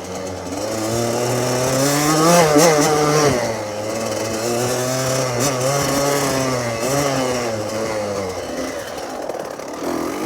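Small dirtbike engine revving up and down while being ridden. The pitch climbs and falls several times, with the loudest surge about two and a half seconds in and a sharp drop in revs just after.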